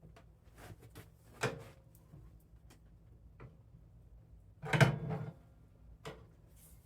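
Light clicks and knocks of metal parts being handled inside a snowblower's gear selector mechanism, as the shift fork is worked onto the shifter, with one louder clatter about five seconds in.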